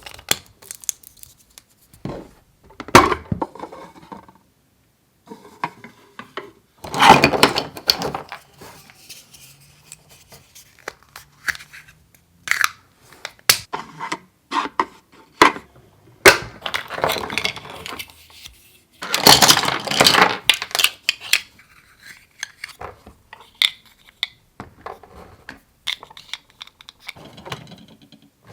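Pieces of a miniature toy kitchen set being handled: small dishes and utensils clicking and clinking against each other, with two longer bouts of clattering about seven and nineteen seconds in.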